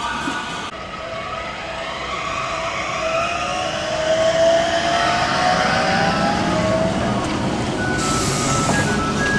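Tram running, its electric drive giving a whine that rises slowly in pitch as it picks up speed, with a brief hiss about eight seconds in.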